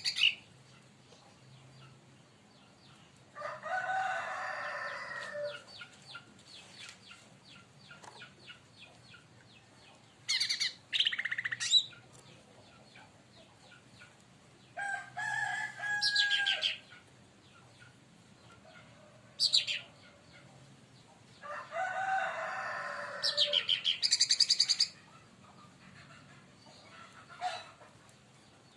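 Cucak ranting (cica daun, a leafbird) singing in separate bursts: rapid high trilled phrases and longer, harsher lower phrases, with pauses of a few seconds between them.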